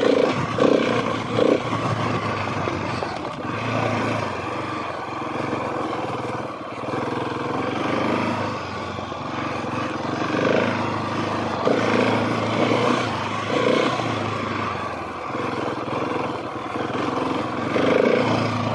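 Husqvarna 701 Supermoto's single-cylinder engine running as the bike is ridden along a dirt trail, its engine speed rising and falling.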